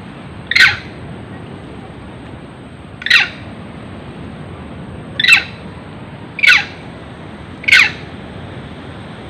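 Five short, sharp animal cries, each falling quickly in pitch, repeated every one to two seconds over a steady hiss.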